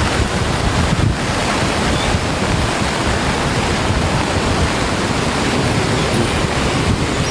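Steady rushing of water with strong wind buffeting the microphone, a loud, even roar with a low rumble.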